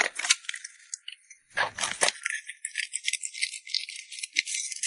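Dense, rapid rattling and clicking throughout, with a short fuller, lower burst about a second and a half in.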